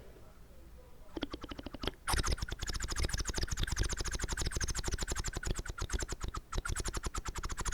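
Rapid wet mouth sounds: a dense stream of small smacking clicks, many each second. They start faintly about a second in and grow loud around two seconds in.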